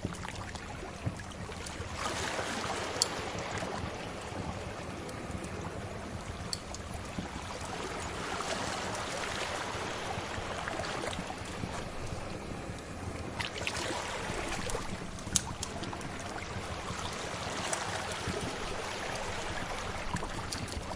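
Sea waves washing in and receding in slow swells, with a few sharp pops from a crackling wood fire.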